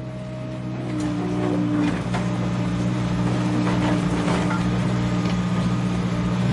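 A steady low motor hum that fades in at the start, with scattered clicks and light knocks over it.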